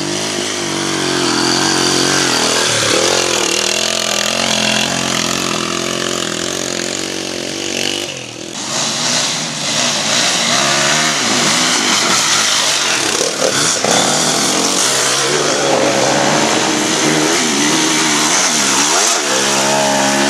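Dirt bike engine running steadily, then revved up and down over and over from about eight seconds in.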